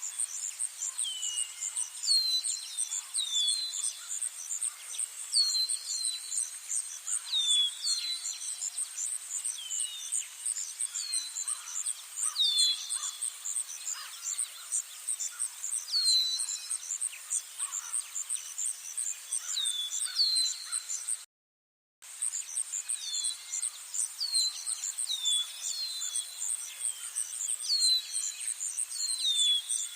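Wild birds calling, short falling whistled notes repeated every second or two over a continuous high, rapidly pulsing trill. The sound drops out completely for under a second about two thirds of the way through.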